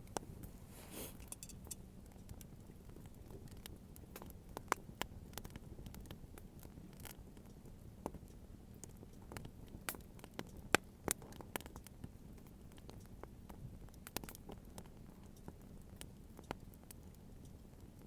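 Wood bonfire crackling: irregular sharp pops and snaps over a low, steady background, with one louder pop a little past the middle.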